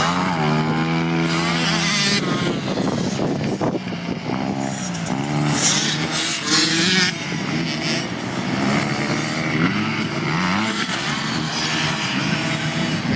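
Pit bike engines revving hard, their pitch climbing and dropping again and again as they accelerate and back off, with more than one bike heard at times.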